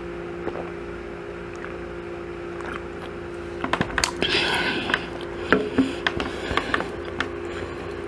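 Eating and food-handling noises close to the microphone: from about halfway in, a run of sharp clicks and crackly chewing and rustling sounds over a steady low hum.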